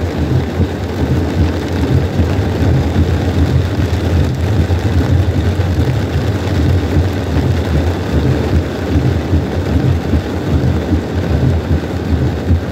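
Heavy rain falling on a car's roof and windshield, heard from inside the cabin as a steady, loud noise with a deep low rumble under it.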